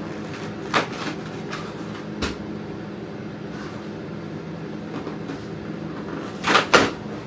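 Flat-pack furniture panels knocking and bumping as they are handled during assembly. There are single knocks about one and two seconds in, then a louder double knock near the end, over a steady low hum.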